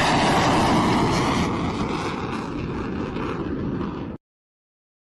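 Fighter jet engine noise, loud and rushing, with sweeping bands of pitch that peak in the first second as it passes. The sound fades a little and then cuts off abruptly a little over four seconds in.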